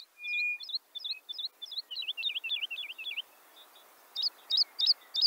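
A songbird chirping in a quick series of short, high notes, which breaks off about three seconds in and starts again about a second later.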